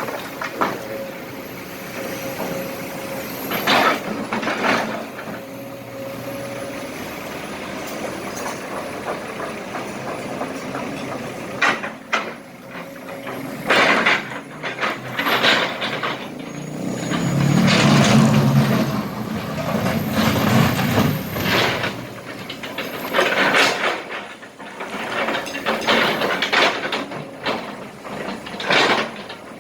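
Kobelco SK200 excavator at work: its diesel engine running steadily while broken asphalt and small rocks clatter and thud into a truck bed at irregular intervals. About two-thirds of the way through, the engine runs louder under load for a few seconds.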